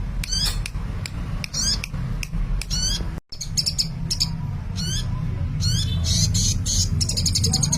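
A sunbird (Indonesian 'kolibri') in full, busy song: rapid high chirps, quick sweeping notes and buzzy trills one after another, with a short gap about three seconds in. A low steady hum runs underneath.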